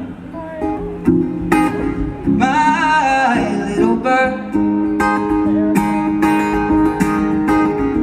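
Live acoustic guitar strumming, with a brief wordless sung phrase over it.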